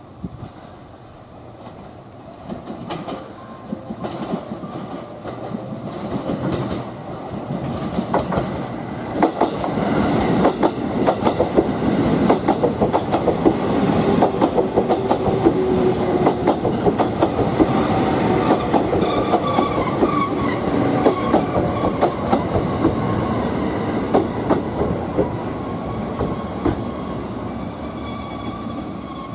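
A train running on the rails close by, its wheels clicking over the rail joints, getting louder over the first ten seconds or so and staying loud.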